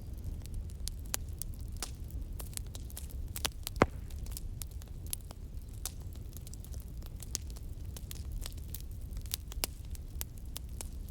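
Wood fire crackling: many irregular snaps and pops over a steady low rumble, with one much louder pop about four seconds in.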